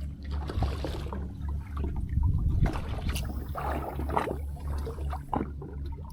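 Water splashing and sloshing in irregular bursts over a steady low hum.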